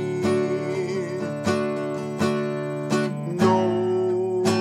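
Acoustic guitar strumming chords, the strums falling every half second to a second.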